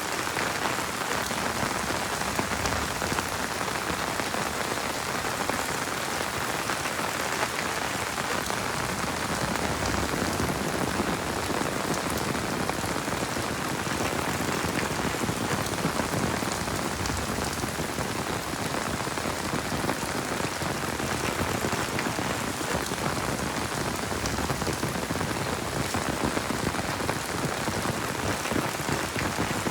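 Heavy rain falling steadily: a dense, even hiss of countless drops hitting surfaces, with no let-up.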